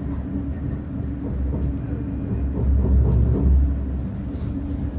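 Low, steady rumble of a West Midlands Railway passenger train running, heard from inside the carriage as it arrives at a station; it swells a little about three seconds in.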